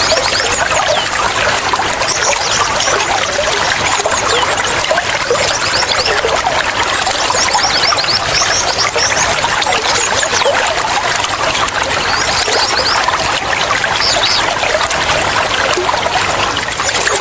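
Running water trickling and pouring steadily, like a small stream or fountain, with many short, high flicks of sound scattered through it.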